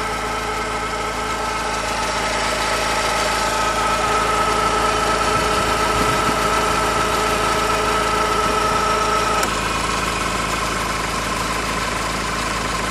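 Honda Civic engine running steadily with a high, even whirring whine over it, the noise the owner is trying to track down. The whirring grows a little louder partway through, then a few seconds before the end it drops back and shifts slightly lower in pitch.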